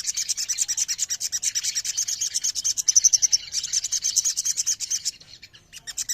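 A dense chorus of sogon (little spiderhunters), many birds at once, giving rapid, high, repeated chirps and trills that thin out a little after five seconds.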